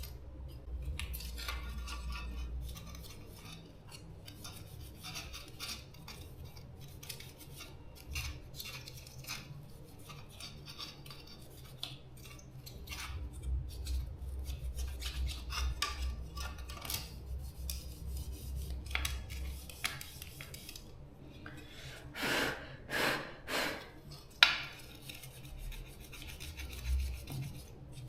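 Small tools and parts being handled at a bench: scattered light clicks, taps and scraping over a low hum. A few louder scrapes come near the end, followed by one sharp click.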